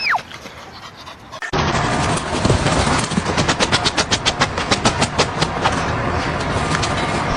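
A dog panting fast and hard, starting suddenly about a second and a half in; just before it, a brief high squeak rises and falls.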